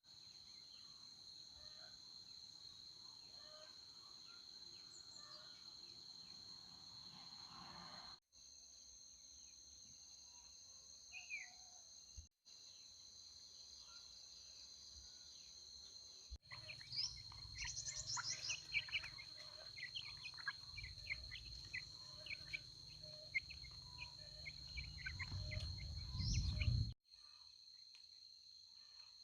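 Rural ambience: insects buzzing steadily at a high pitch, with birds chirping, most busily in the second half along with a low rumble. The background changes abruptly several times.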